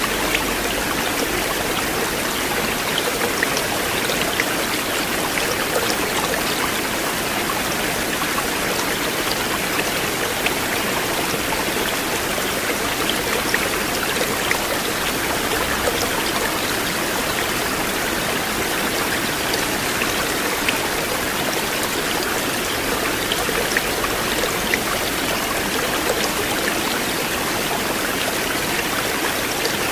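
River water flowing steadily, a continuous rush with small splashes and drips scattered through it.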